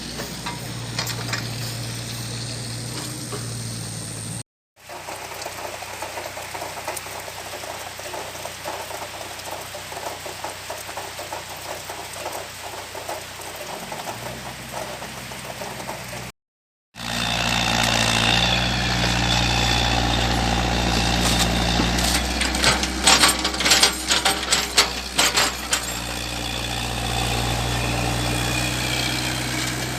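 Komatsu PC78 excavator's diesel engine running steadily, broken by two brief silent cuts. In the last stretch the engine runs louder, with a quick series of metallic clanks and rattles in the middle.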